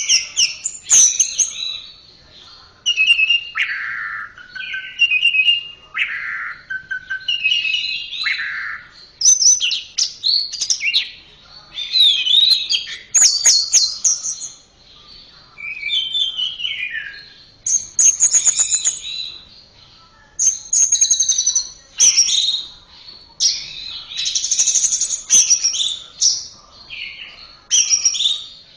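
Orange-headed thrush (anis merah) singing a varied song of short phrases: whistled notes sliding up and down, rapid trills and chattering, a new phrase about every second with short gaps between.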